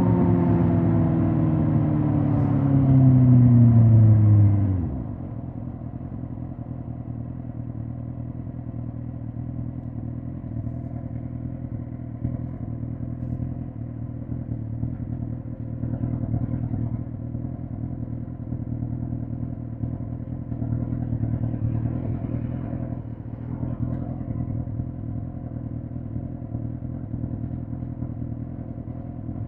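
2005 Suzuki GSX-R1000 K5's inline-four engine falling in pitch as the bike slows, then dropping to a steady idle about five seconds in.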